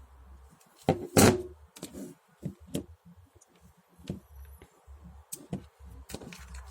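Handling noise from a handheld two-way radio: scattered clicks and light knocks of its keypad buttons being pressed and the set being moved, with one louder scraping burst about a second in.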